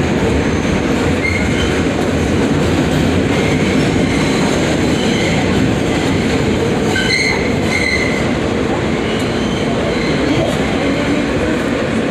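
New York City subway F train running, heard from on board: a steady rumble of wheels on the rails, with a few short high wheel squeals, the clearest about seven seconds in.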